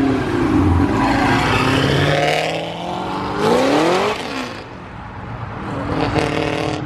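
Car engine running under load, revving up with a rising pitch about three and a half seconds in as the car accelerates away, then fading; another engine builds near the end.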